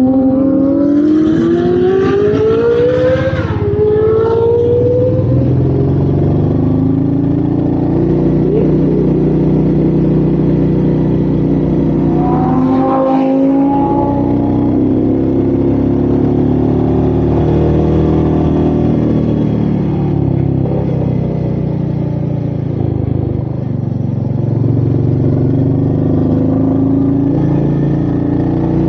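Royal Enfield Meteor 350's single-cylinder engine on the move, with wind noise. It revs up through a gear in the first few seconds, shifts up about three and a half seconds in, and briefly rises and shifts again about thirteen seconds in, then runs on steadily.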